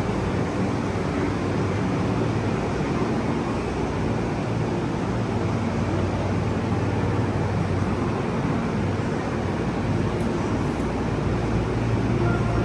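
Steady low rumble and hum of a limited express train standing at a station platform with its engines idling.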